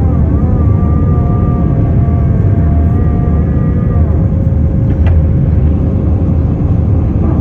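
Airbus A319 jet engines at takeoff power: a loud, steady roar, with a thin steady whine over it for the first few seconds that then fades.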